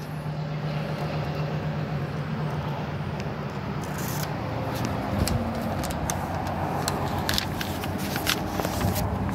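An engine running steadily with a low, even hum, with scattered clicks and knocks over it.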